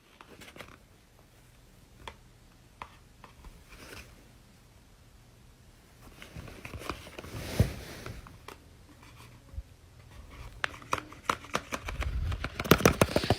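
Close-up handling of paper: scattered small clicks and rustles, picking up into a quick run of sharp clicks and crinkles near the end.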